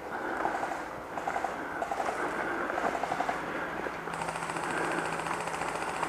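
Airsoft electric guns firing: several short rapid rattling bursts in the first few seconds, then from about four seconds in a sustained full-auto burst with the steady whine of the gun's electric gearbox.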